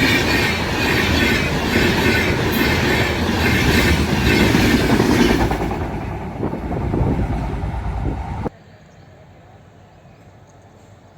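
A train passing close by, its wheels clattering over the rail joints in a steady rhythm. The sound eases a little after about six seconds, then cuts off abruptly near the end, leaving only a faint background.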